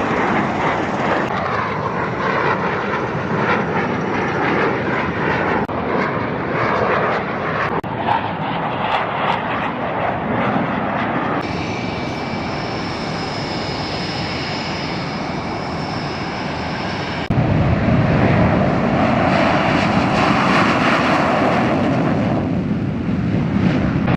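F/A-18 Hornet jet engines running, heard across several edited shots: a steady rushing noise, then a stretch with a high thin whine from a little before halfway, then a louder, deeper rumbling shot from about two-thirds of the way in.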